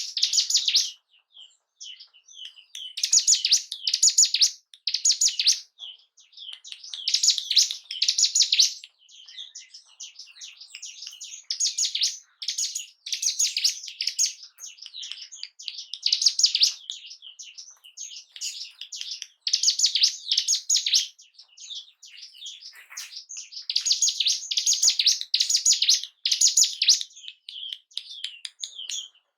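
Ciblek gunung singing: bursts of rapid, high chirping notes in phrases a second or two long, repeated with short pauses. This is lure song meant to excite a caged bird of the same kind.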